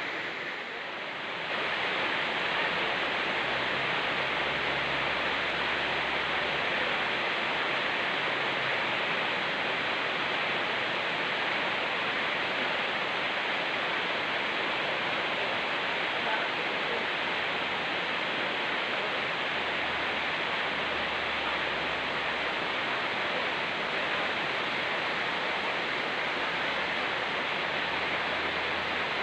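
Steady, even rush of rain falling together with a fast-flowing mountain stream, briefly a little softer at the very start.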